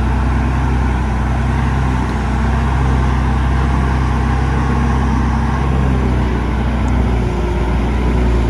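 Heavy diesel engine of earthmoving machinery running steadily, its note changing slightly about six seconds in.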